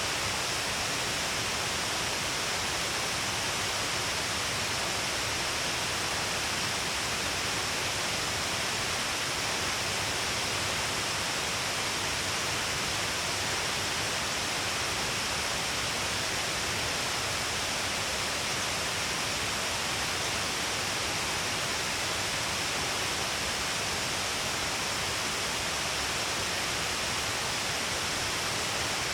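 Shiraito Falls: many streams of water pouring down a long cliff face into a pool, a dense, steady hiss of falling water and spray with no change.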